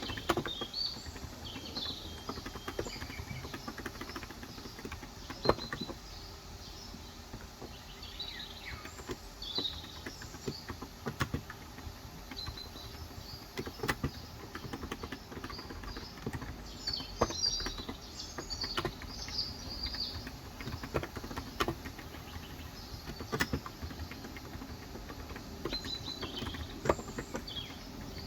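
Occasional keystrokes, single taps and short clusters a few seconds apart, on a Cox Endeavor contactless (electro-capacitive) 35 g tenkeyless keyboard. Birds chirp in short bursts between them.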